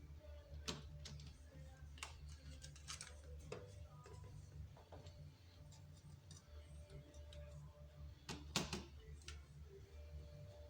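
Scattered light clicks and taps of hand tools and engine parts being handled during glow plug work on a BMW 3.0 diesel, over a low steady hum. The sharpest knock comes about eight and a half seconds in.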